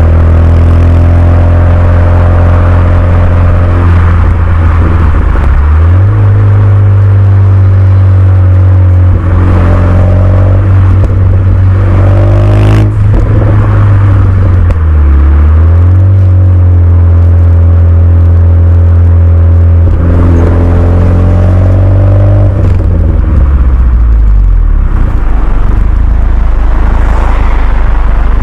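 Renault Mégane 2 RS's 2.0-litre turbocharged four-cylinder running loud through a Milltek cat-back exhaust, the engine note rising and falling several times. A single sharp click sounds a little before halfway.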